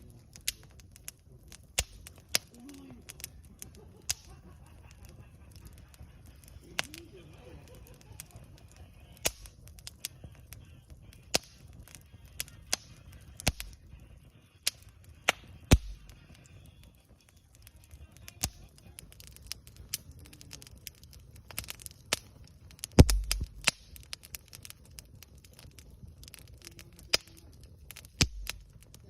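Wood campfire crackling: sharp, irregular pops and snaps of burning wood over a low, steady rumble of flame, with a burst of louder pops a little past the twenty-second mark.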